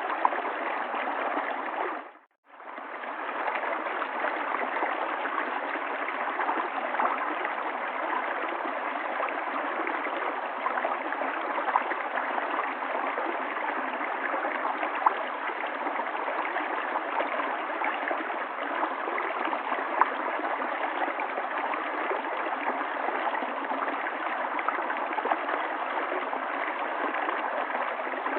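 River water flowing in a steady rushing stream with small splashes and gurgles; the sound cuts out for a moment about two seconds in, then returns.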